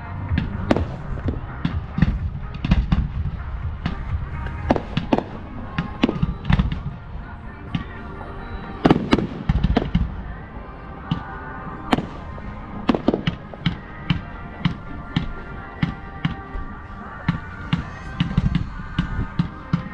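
Professional fireworks display: a rapid, irregular barrage of firework bursts, sharp bangs following one another several times a second over a low rumble. The loudest come about nine and twelve seconds in.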